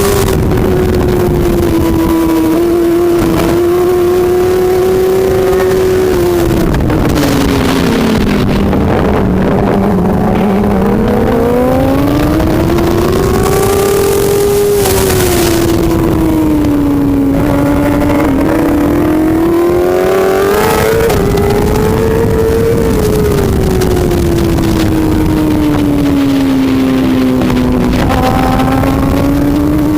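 A superbike's engine running hard without a break, its pitch sinking and climbing again several times as the rider rolls off and opens the throttle.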